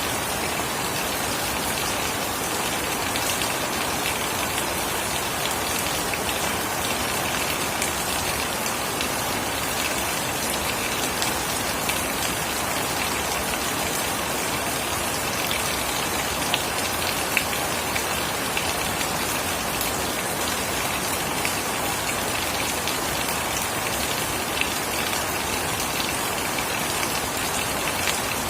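Steady rain falling, with a constant hiss and scattered distinct drop ticks on nearby surfaces.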